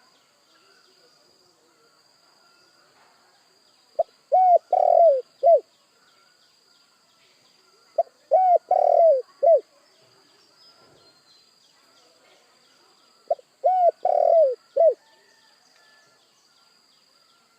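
Spotted dove (tekukur) cooing: three phrases about four to five seconds apart, each of four low notes with the third note the longest and loudest.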